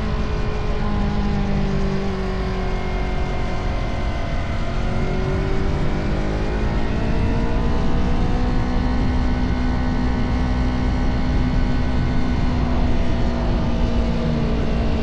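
Motorcycle engine running under way. Its note dips about four seconds in and climbs again over the next few seconds, then holds steady, over a constant rush of wind and road noise.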